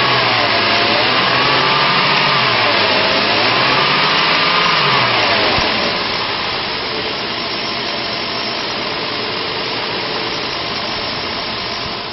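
2007 Dodge Grand Caravan's 3.8-litre V6 engine running: it is revved up and down a couple of times, then settles to a steady idle about six seconds in.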